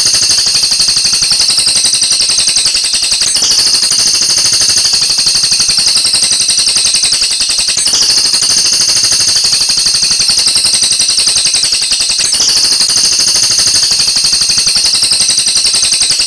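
Oriental magpie-robin (kacer) song: a fast, continuous, high-pitched rattling trill that goes on without a break, its phrasing shifting slightly about every four seconds.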